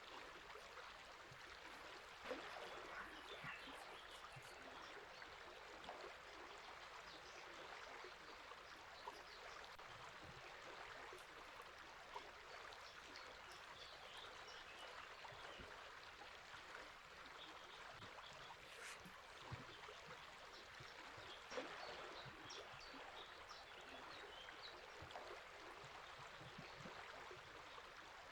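Faint, steady rush of a flowing river or stream, with scattered bird song.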